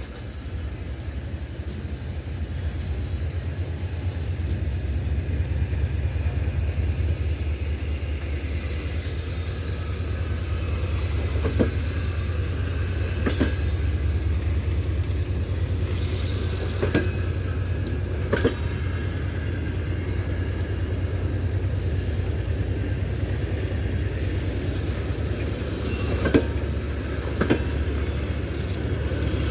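Train running with a steady low rumble that builds over the first few seconds, its wheels knocking over rail joints in pairs of sharp clacks a second and a half apart, several times.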